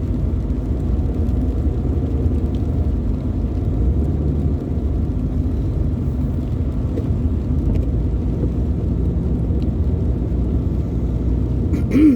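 Steady low rumble of road and engine noise inside a moving car's cabin. Just before the end there is a brief, louder sound with a short pitched swoop.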